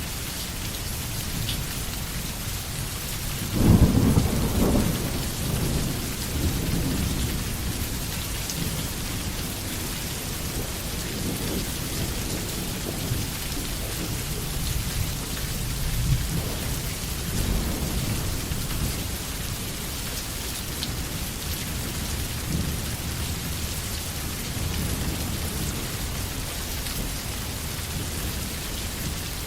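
Steady heavy rain falling in a forest, with a sudden loud thunderclap about three and a half seconds in that rolls off over a few seconds, followed by weaker rumbles of thunder later on.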